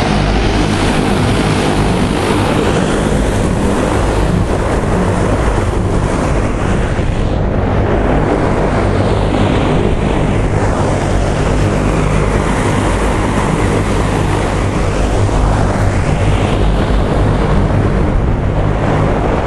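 Strong wind buffeting the microphone with surf breaking on the beach, as a loud, steady rush over a constant low hum.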